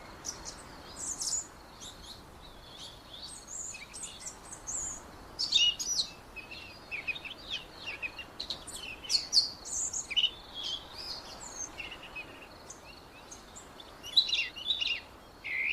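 Several songbirds chirping and singing in a forest, many short, quick calls overlapping throughout, over a faint steady hiss.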